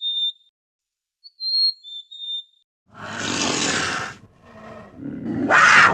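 Short, high whistled chirps from a bird in the first half, then about halfway three loud, harsh, rough animal calls, the last the loudest.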